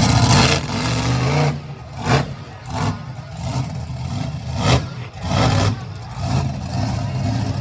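Monster truck engine running loud, then revving in short bursts several times.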